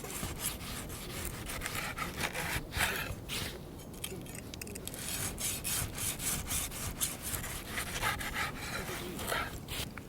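Hand saw cutting wood, with a run of uneven back-and-forth strokes that pause briefly a few times.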